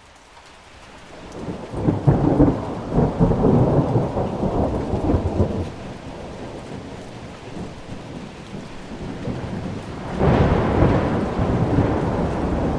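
Thunderstorm recording: rain falling steadily with two rolls of thunder. The first rumble builds over the first couple of seconds and rolls on for about four seconds before dying away; the second breaks in more suddenly about ten seconds in.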